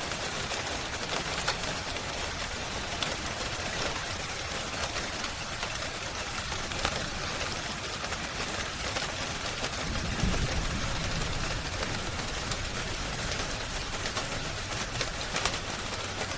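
Steady rain mixed with a crackling fire: an even hiss dotted with many small sharp crackles, and a short low rumble about ten seconds in.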